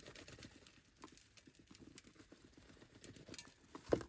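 Ranch seasoning being shaken into the burger mix: faint, light pattering and ticking, with a couple of sharper knocks near the end.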